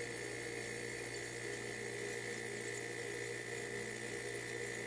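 The compressor of a 1984 Excellence mini fridge, which has just kicked on, running with a quiet, steady hum and a faint high whine.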